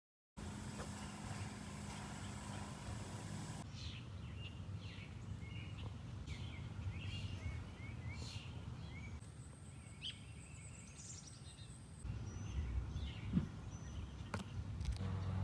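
Wild birds chirping, with many short, repeated calls starting about four seconds in, over a steady background hiss and low rumble. Before the chirping there is only that steady noise with a low hum.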